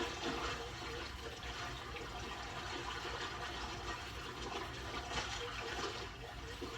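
Water splashing and churning as Nile crocodiles twist and spin in a river, tearing pieces off a wildebeest carcass, played from a documentary soundtrack. The splashing swells and eases, and is heaviest about five seconds in.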